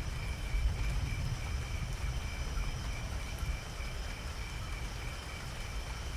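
Steady night rain with a low rumble underneath, and a small animal chirping in a high, even pulse about three times a second.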